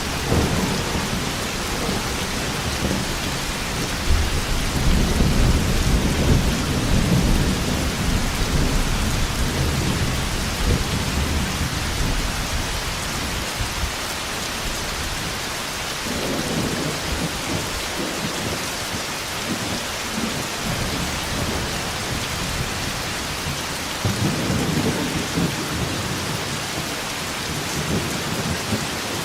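Thunderstorm: steady heavy rain with low rolling thunder that swells and fades three times, longest in the first half.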